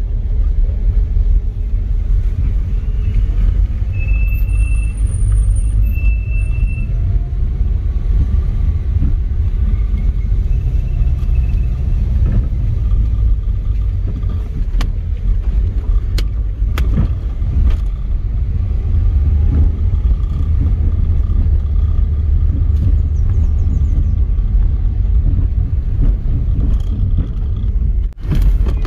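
Steady low rumble of a moving vehicle's engine and road noise, with a few short high chirps and a few sharp clicks.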